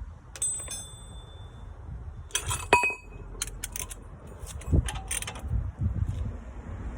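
Metal hand tools clinking and knocking against metal car parts during shock absorber removal, a few of the strikes ringing briefly.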